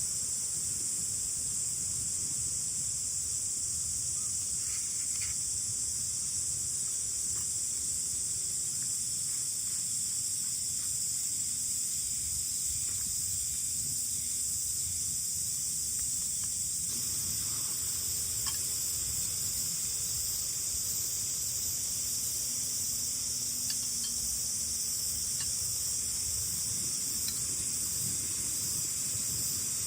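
Steady, high-pitched chorus of insects such as crickets, unchanging throughout, over a low, uneven rumble of wind.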